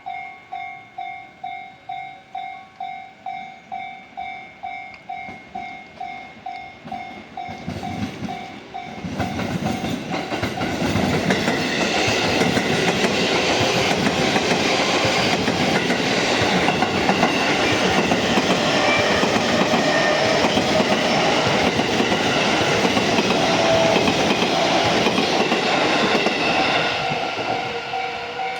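Level-crossing warning bell pulsing about twice a second. From about eight seconds in, a JR East E233 series electric commuter train passes over the crossing for nearly twenty seconds, its wheels clacking over the rail joints. The bell comes through again near the end as the train clears.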